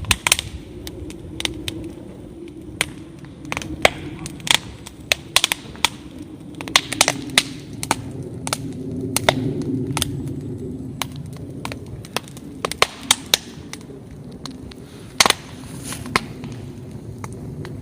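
Fire crackling in a fire bowl: irregular sharp pops, a few much louder than the rest, over a low steady rumble of the flames.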